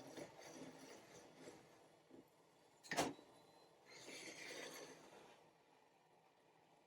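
Faint handling sounds: light rustling, a single sharp knock about three seconds in, and a brief scraping noise a second later.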